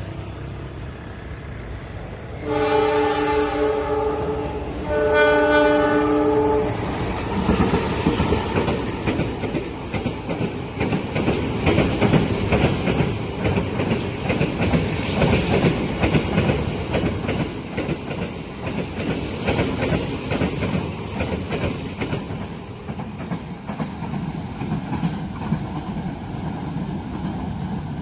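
Train horn sounding two blasts, the second right after the first, then the train passing close by with a steady rhythmic clatter of wheels over the rails.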